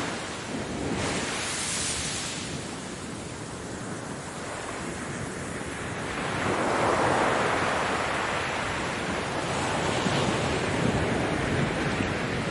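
Ocean surf washing onto a beach: a steady noisy rush that ebbs and then swells again as a wave breaks about halfway through.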